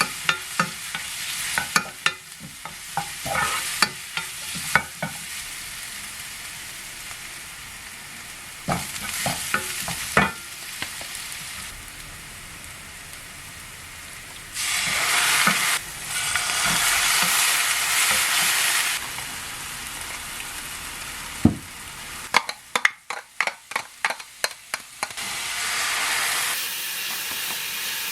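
Food frying in a pan while being stirred, with scattered clicks of a utensil against the pan. A louder sizzle swells up about halfway through and lasts a few seconds. Later comes a quick run of about eight knocks, followed by a steady, softer sizzle.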